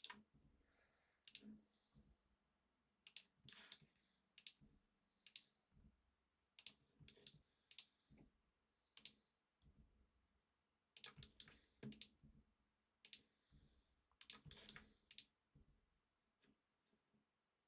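Faint, irregular clicks of a computer mouse and keyboard, single or in quick pairs and small clusters, with short pauses between them.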